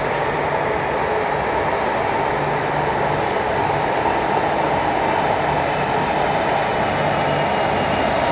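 Cercanías Civia electric commuter train drawing slowly into an underground station platform: steady running noise of the train with a low hum that comes and goes, echoing in the station.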